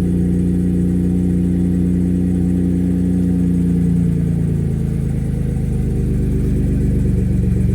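3.5 EcoBoost twin-turbo V6 idling after a cold start through a 3-inch MBRP side-exit exhaust. The idle is steady, then drops slightly in pitch about halfway through as the raised cold-start idle eases down.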